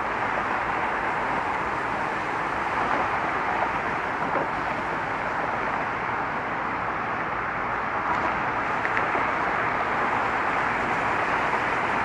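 Steady traffic noise from vehicles crossing a bridge: an even wash of tyre and engine sound with no single vehicle standing out.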